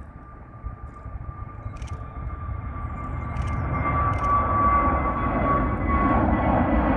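Jet airliner's engines growing louder over about four seconds as the aircraft draws near, then holding loud, with a steady high whine over a deep rumble.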